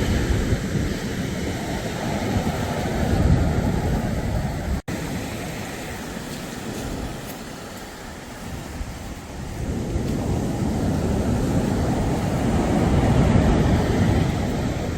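Sea surf washing ashore with wind rumbling on the microphone, the noise swelling and easing; it cuts out for an instant about five seconds in.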